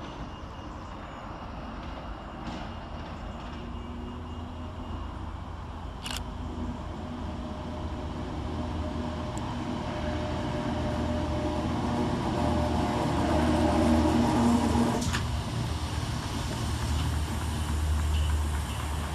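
Scotrail Class 320 electric multiple unit running through the station, its traction motors giving a steady hum that grows louder to a peak about fourteen seconds in, then eases. A sharp click sounds about six seconds in and another just after the peak, with a deep rumble carrying on to the end.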